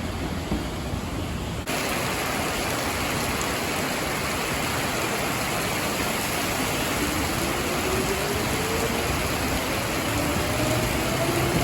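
Heavy rain hissing steadily, with a sudden change in the sound about two seconds in. From about seven seconds in, the motor whine of an electric commuter train rises steadily in pitch, joined near the end by a second rising whine.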